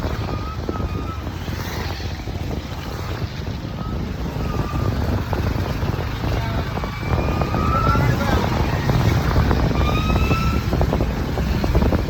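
Wind buffeting the microphone over the hum of a TVS Ntorq scooter on the move, with road rumble underneath; a few short, thin high tones cut through now and then.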